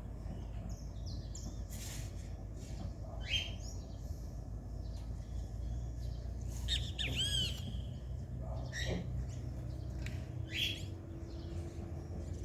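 Fork-tailed flycatchers calling: scattered short, sharp rising chirps, with a quick run of repeated twittering notes about seven seconds in, over a steady low hum.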